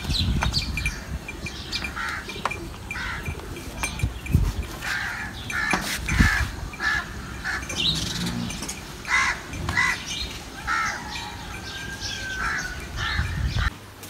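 Birds calling, short calls repeated many times, over a low rumble with a couple of dull thumps a few seconds in.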